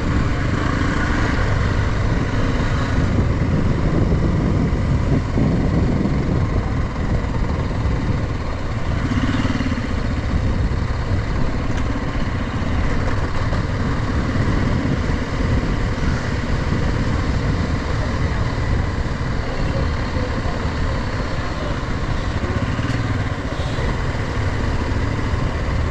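Motorcycle being ridden, its engine running steadily.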